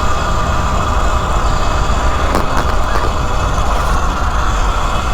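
Wind noise buffeting the microphone on a moving E Ride Pro SS electric motorbike, over the steady whine of its electric motor and drivetrain holding one pitch at a constant speed.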